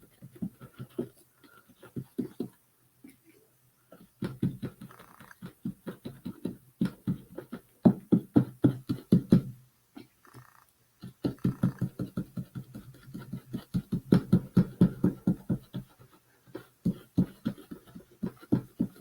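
A paint sponge dabbed quickly against the birdhouse roof, about five soft taps a second, in three runs with short pauses between them, pressing on textured paint.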